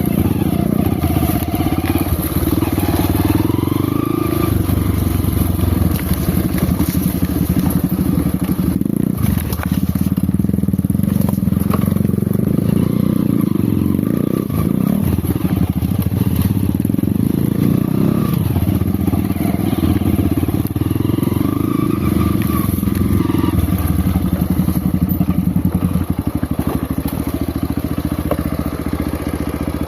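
Off-road motorcycle engine running at low speed, revving up and down as the bike works through the trail.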